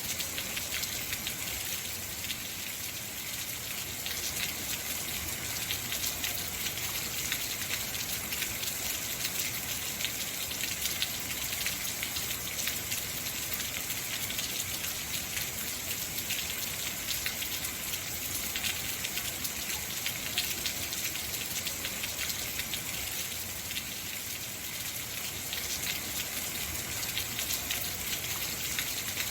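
Heavy, steady rain: a dense hiss of falling drops with many fine patters of drops striking a surface.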